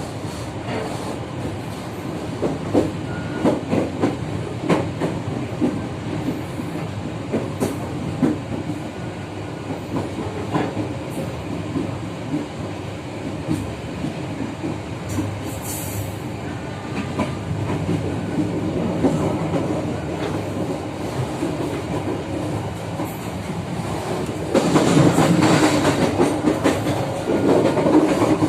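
Local economy passenger train running along the track: a steady rumble with the clickety-clack of wheels over rail joints, growing louder for a couple of seconds near the end.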